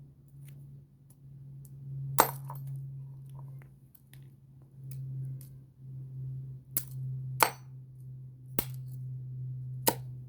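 A slinky being handled and knocked about, giving about five sharp metallic clinks spaced irregularly over a steady low hum.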